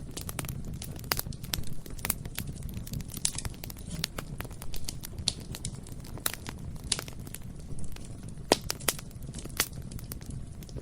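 Bonfire burning, with a steady low rumble of flame and irregular sharp crackles and pops of burning wood, several of them louder snaps.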